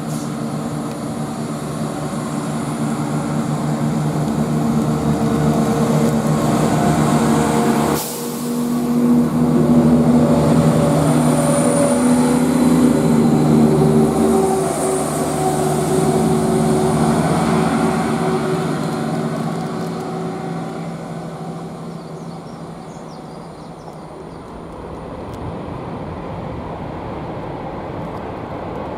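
A Class 170 Turbostar diesel multiple unit's underfloor diesel engines working hard as the train pulls away. The engine note builds and steps up after a brief dip about eight seconds in, then fades as the train draws away.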